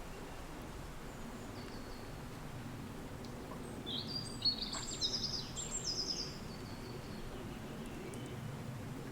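Wind blowing steadily, with a bird singing a short phrase of quick, high chirps about four seconds in that lasts a couple of seconds, and a few fainter notes before and after.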